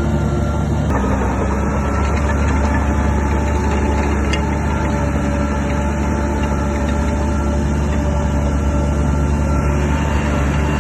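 Heavy diesel engine of a crawler bulldozer running steadily under load, a deep, even hum with no pauses.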